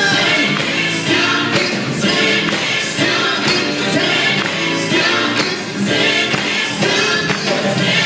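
Gospel worship music: a choir singing over instruments with a steady beat.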